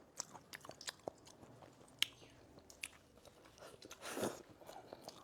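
A person chewing soft food close to the microphone: faint wet mouth clicks scattered throughout, with one short louder breathy noise about four seconds in.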